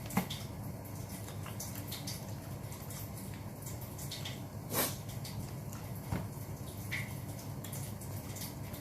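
Wet mouth clicks and smacks of someone chewing food close to the microphone: a few sharp ones spread out over a low steady hum.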